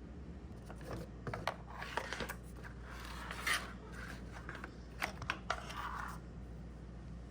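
A run of sharp clicks, knocks and scraping handling noises, loudest about three and a half seconds in, over a low steady hum; they stop a little after six seconds.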